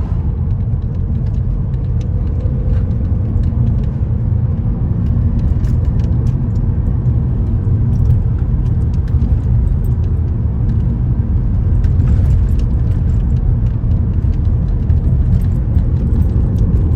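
Steady low rumble of a car in motion, with faint scattered small clicks and rattles.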